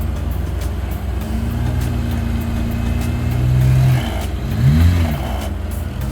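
A 4x4 truck's engine revs up and holds under load for a couple of seconds while the truck climbs an RTI ramp. It drops off about four seconds in, then gives one quick rev up and back down.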